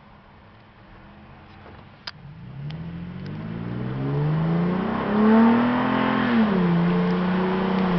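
2008 Toyota Tacoma with a URD cold air intake and JBA exhaust accelerating. The engine note rises over a few seconds, drops at a gear change about six and a half seconds in, then holds steady. A short sharp click comes about two seconds in.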